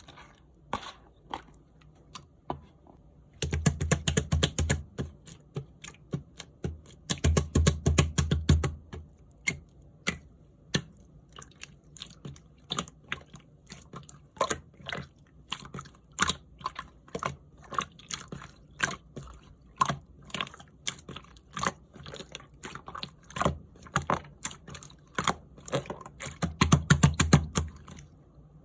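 Clear slime being squished and pressed by hand, making a steady run of sticky clicks and small pops. It breaks into louder, rapid squelching three times: a few seconds in, around the middle of the first third, and near the end.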